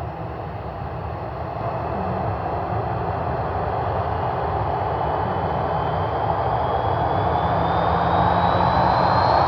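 Jet airliner engines: a steady rushing roar that grows louder, with a thin whine slowly rising in pitch over the second half.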